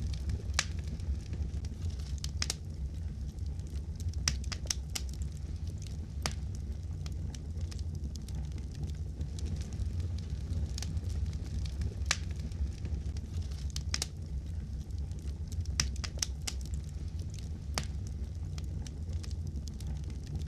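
Wood fire crackling in a fireplace: a steady low rumble of flames with irregular sharp pops and snaps, a few every couple of seconds.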